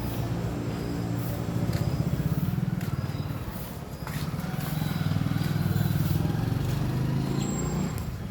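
Diesel engine of an Ashok Leyland sewer jetting and suction truck running steadily with a low, even hum, easing briefly about four seconds in and then picking up again.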